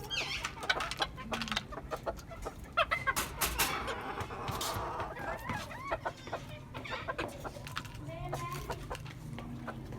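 Hens clucking with short calls, among scattered sharp clicks and knocks.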